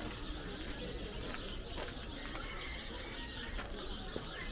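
Birds calling over a steady outdoor background din.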